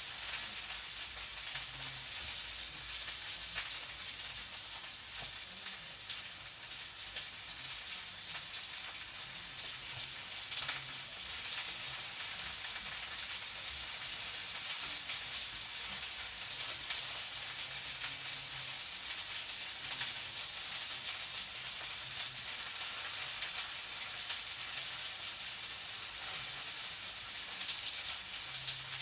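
Food sizzling and frying in a hot pan, a steady crackling hiss with many small pops.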